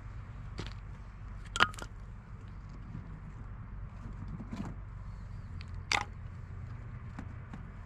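A handful of short, sharp clicks and clinks of small objects being handled, the loudest about one and a half seconds in and another strong one about six seconds in, over a steady low rumble.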